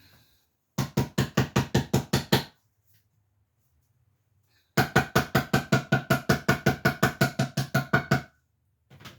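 Rapid knocking on a paint can lid, hammering it shut to seal the can: two runs of about seven quick, ringing knocks a second, a short run of about a dozen near the start, then a longer run of about two dozen after a pause.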